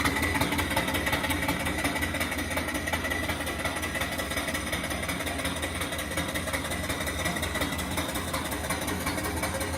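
Small single-cylinder steam engine (2.75-inch bore, 4-inch stroke, flyball governor) running steadily on steam from a return flue boiler, its exhaust puffing up the boiler's stack.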